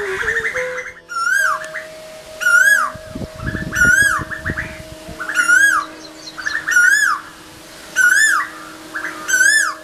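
Asian koel calling over and over, one loud note every second or so, each rising then falling. Fainter, quick chattering from other birds sounds between the calls.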